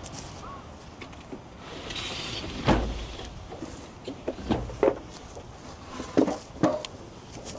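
A series of sharp knocks and clunks of things being handled, like a door, lid or drawer being moved, with a short hiss about two seconds in.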